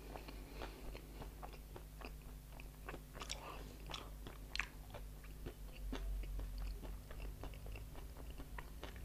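Close-miked crunchy chewing of dry chatpate, a spicy Nepali snack, as a man eats it by the spoonful: a steady run of short, crisp crunches with a few louder bites.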